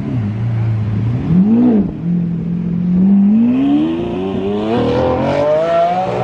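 A vehicle engine idling, given one quick rev about a second and a half in, then accelerating hard, its pitch climbing steadily without a break as it pulls away.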